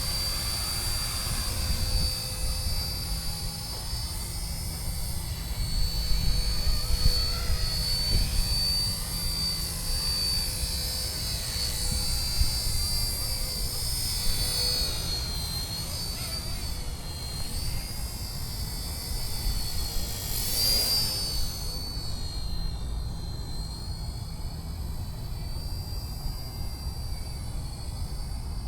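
RC ERA UH-1 Huey model helicopter in flight: a steady high motor whine that wavers slightly with throttle, over rotor noise and a low rumble. A brief swish about 21 s in, after which the whine is a little fainter.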